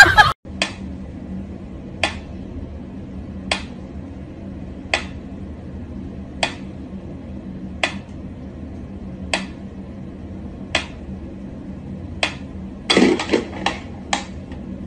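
Mechanical pyramid metronome ticking slowly and evenly, one tick about every second and a half. A short flurry of knocks and rustling comes near the end.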